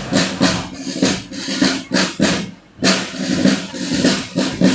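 Marching band playing, with regular drum beats about twice a second under held low notes.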